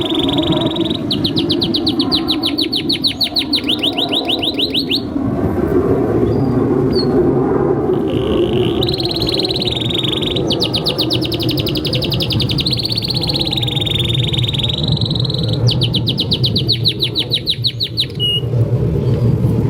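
Domestic canary in full, vigorous song, as used for a masteran training track. It sings long unbroken rolls that switch between fast pulsed trills and smooth, continuous rolling phrases, over a steady low background noise.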